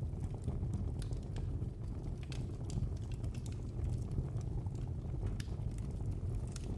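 Wood fire crackling in a fireplace: frequent small, sharp, irregular pops and snaps over a steady low rumble of the flames.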